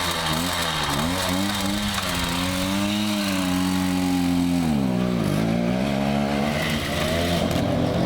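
Riga Delta moped engine running hard, its revs wavering up and down with the throttle, then holding high. About five seconds in the revs drop sharply, then climb again.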